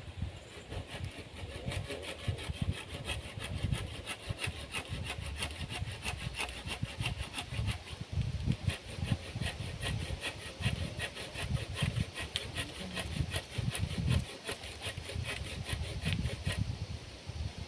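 Hand saw cutting through wood in steady back-and-forth strokes, the teeth rasping through the grain.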